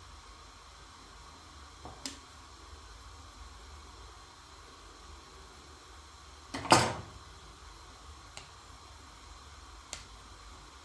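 Steady background hiss with a few sharp clicks and one louder, short knock about two-thirds of the way through, as of an object being set down or handled.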